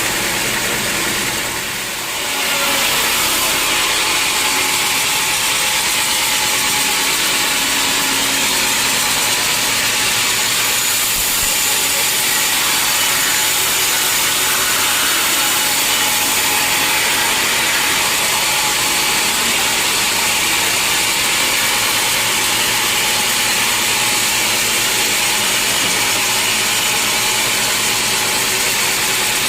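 A sawmill saw cutting steadily through a large log, making a loud, continuous hiss that dips briefly about two seconds in and then holds even.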